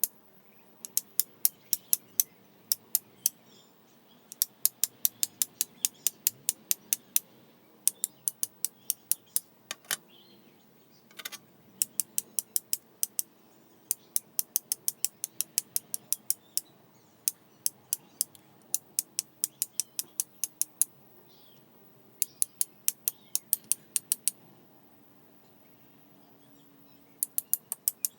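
Flint struck again and again against a fire steel to throw sparks: sharp, high clicks in quick runs of several strikes with short pauses between.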